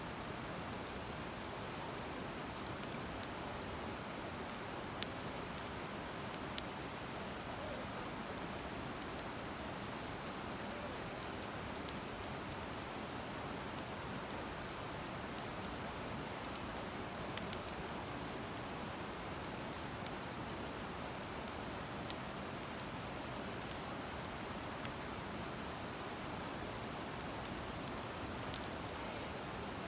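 Campfire wood burning in a fire stand, giving sharp crackles and pops every few seconds over a steady rushing hiss.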